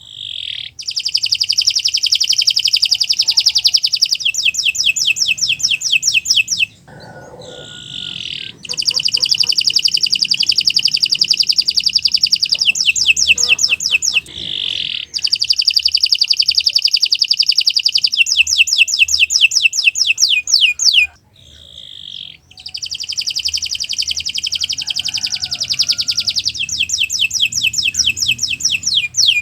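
Domestic canary singing long song phrases: each begins with a fast, rolling trill and ends in a quick run of falling notes. Four phrases come one after another, separated by short pauses.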